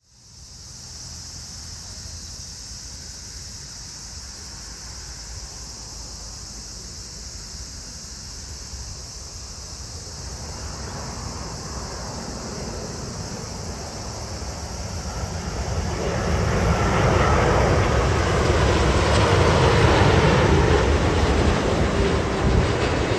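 A landing jet airliner approaching and passing: its engine rumble grows from about halfway through and is loudest near the end, with a faint steady whine. A steady high hiss lies underneath throughout.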